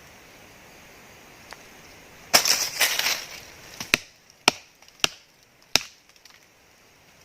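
Wood splintering and cracking: a crackling burst about two seconds in, then four sharp, separate cracks over the next two seconds.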